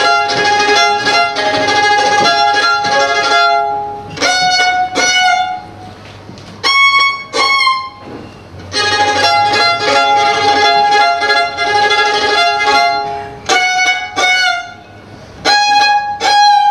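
A single melodic instrument playing live, most likely a bowed string: long phrases of held two-note chords, broken by pauses and short groups of higher notes.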